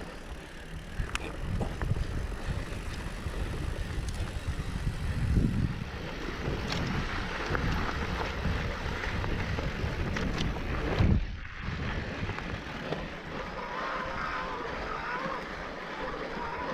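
Mountain bike riding over a dirt trail: wind buffeting the microphone and tyres rolling, with scattered knocks and rattles from bumps and a heavy thump about eleven seconds in.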